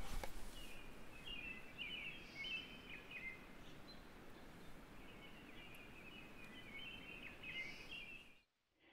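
A songbird singing two long runs of quick chirping notes, each about three seconds, over a steady hiss of forest air.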